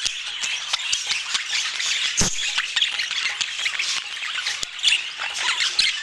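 A flock of budgies chattering, with many overlapping quick chirps, warbles and squawks. A single sharp click sounds about two seconds in.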